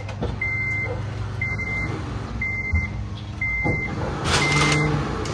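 8th-generation Honda Civic Si's warning chime beeping about once a second, steady and high, before the engine is started, over a low hum, with a brief rush of noise about four seconds in.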